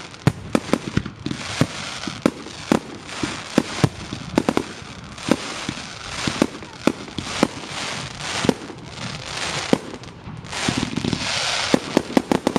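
Fireworks display: an irregular run of sharp bangs from bursting shells over a continuous hiss and crackle, with a swell of hissing and then a quick cluster of bangs near the end.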